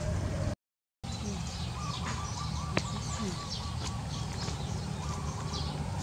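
Small songbirds chirping, short high notes scattered through, over a steady low background rumble. The sound cuts out completely for about half a second near the start.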